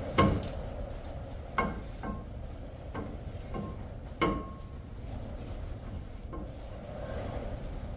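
Metal clanks and knocks from a steel brake rotor being handled and fitted back onto the rear hub. The loudest are just after the start and about four seconds in, and several leave a short ringing tone.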